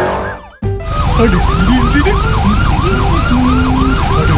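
Cartoon police-car siren sound effect wailing in a fast repeating up-and-down pattern, about three cycles a second, over a background music tune. The sound drops out briefly about half a second in, then the siren starts again.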